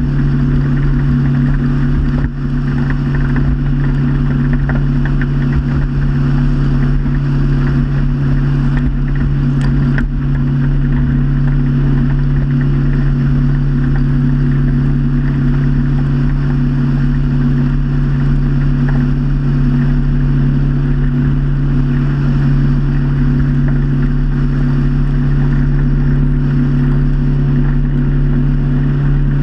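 Motorboat engine running steadily at cruising speed, a constant droning hum with no change in pitch.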